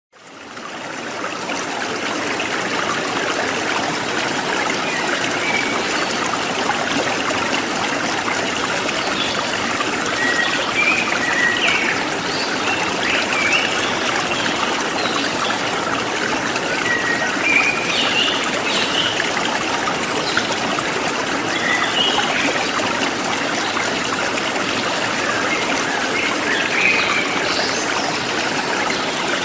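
Forest stream flowing steadily, fading in over the first second or so, with birds chirping in short, scattered calls from about five seconds in.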